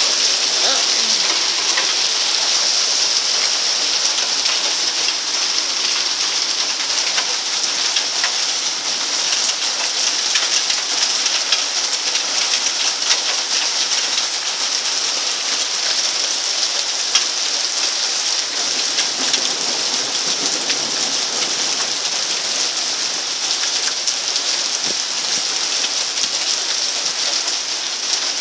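Heavy rain pouring down: a steady, dense hiss of falling drops with fine patter mixed in.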